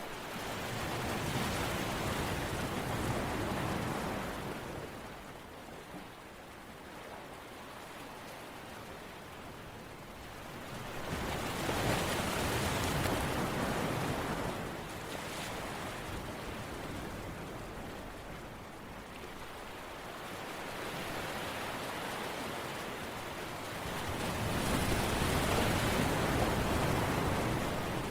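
Continuous rushing noise of water that swells and eases in slow surges, three times about twelve seconds apart.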